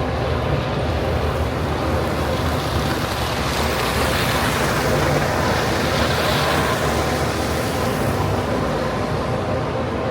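City street traffic: vehicle engines running steadily with a wash of road noise that swells and fades about four to seven seconds in, as a vehicle goes by.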